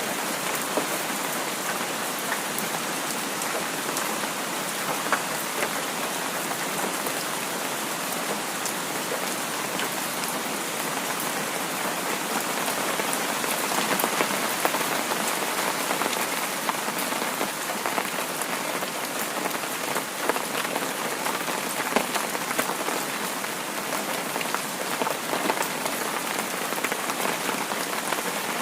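Heavy rain falling steadily: a dense, even hiss with many scattered sharp ticks of drops striking a surface.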